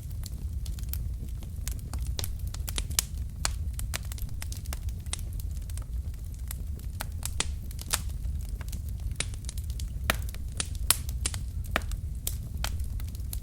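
Wood fire burning in a fireplace: a steady low rumble of flames with irregular crackles and sharp pops from the logs, a few louder pops among them.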